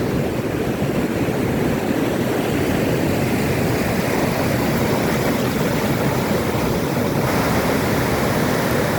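Surf breaking on a beach, a steady rushing noise, with wind buffeting the microphone.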